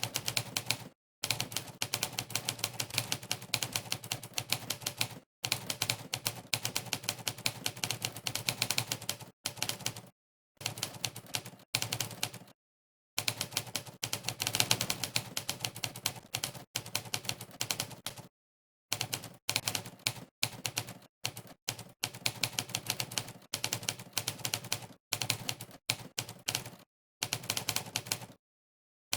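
Monkeytype's typewriter keypress sound effect: rapid runs of sampled typewriter key clacks, one for each key typed. The runs are broken every few seconds by short gaps of complete silence.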